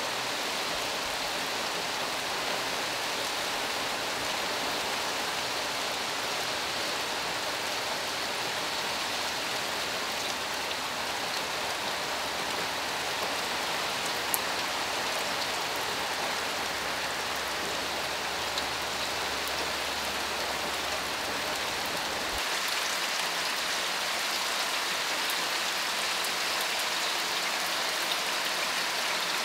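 Steady rain falling, drops pattering and splashing on a wet road and pavement. A single sharp tick sounds about halfway through, and about three-quarters of the way in the low rumble drops away and the patter turns brighter.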